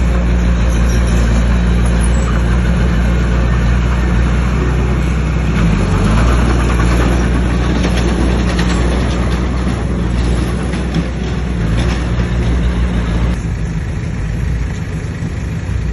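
Bulldozer's diesel engine running under load, a steady low drone with a rough noise over it. The engine eases off near the end.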